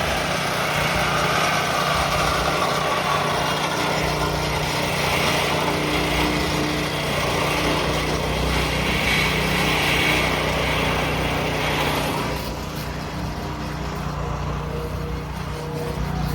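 An engine running steadily, a little quieter from about twelve seconds in.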